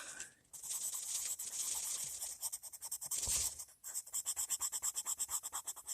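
Coloured pencil scratching on paper in quick back-and-forth shading strokes, with short pauses about half a second in and just before four seconds, then a fast run of about ten strokes a second.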